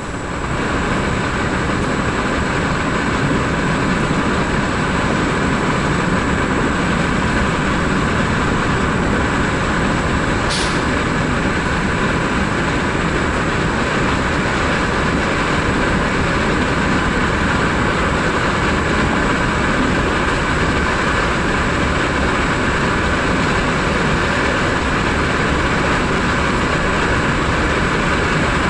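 Steady running noise of a Vivalto double-deck passenger train heard from on board, growing louder in the first second and then holding even, with a faint high whine over the rumble. A brief tick sounds about ten seconds in.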